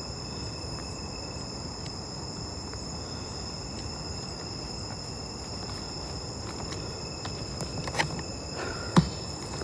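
Night insects such as crickets trilling steadily in several high, unbroken tones. Two sharp knocks come near the end, the second louder.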